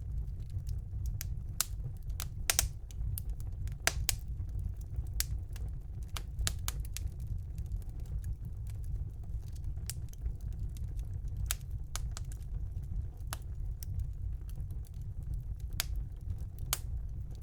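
Wood fire burning in a fireplace: irregular sharp crackles and pops, about one or two a second, over a steady low rumble of the flames.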